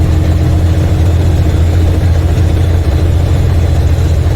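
Semi truck's MaxxForce 13 diesel engine droning steadily under load, heard from inside the cab, as the truck starts up a mountain grade with a heavy trailer.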